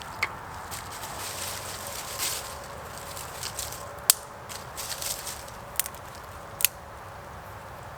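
A few sharp, short clicks and knocks, four of them louder than the rest, with soft handling noises in between.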